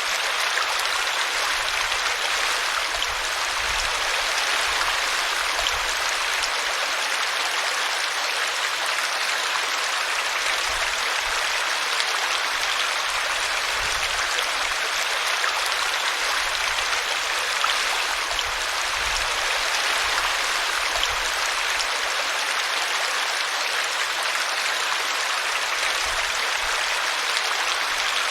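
Small brook running and splashing over a tree root, a steady unbroken water noise.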